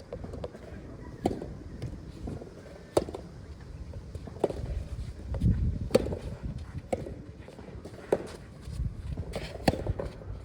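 Soft tennis rally: rubber balls struck by rackets (with bounces) at a steady pace of about one hit every one and a half seconds. Strong wind buffets the microphone throughout as low rumbling gusts.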